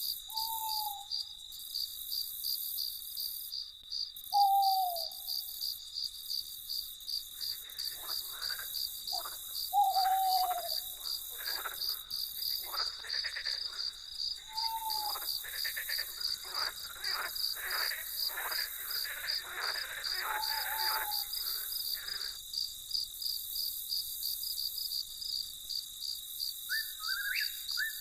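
Crickets chirping at night: a high, rapidly pulsing trill that never lets up. Over it come a few short falling calls from a night bird, and a stretch of rapid rattling calls in the middle.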